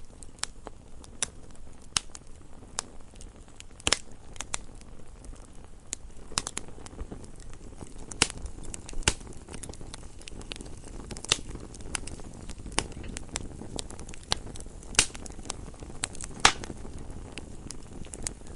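Campfire burning steadily, a low rush of flames with irregular crackles and pops from the wood, and a few louder snaps.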